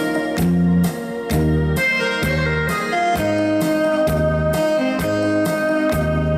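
Saxophone playing a song melody over a backing track of keyboard, bass and a steady beat. About three seconds in, the saxophone holds one long note.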